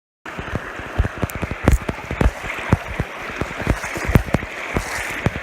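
Mountain trout creek rushing steadily, cutting in abruptly, with frequent dull knocks and bumps close by.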